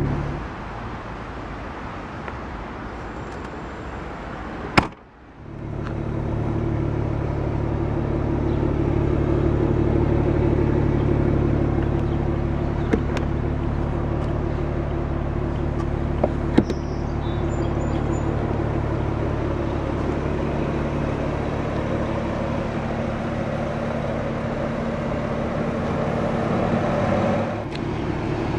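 The BMW 335is's twin-turbo straight-six idling steadily, with a sharp click about five seconds in and a couple of lighter clicks later.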